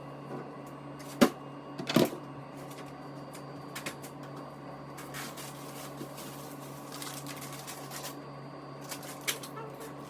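A steady low hum with two sharp knocks, about one and two seconds in, and a few lighter clicks and taps after them, like objects being handled and set down.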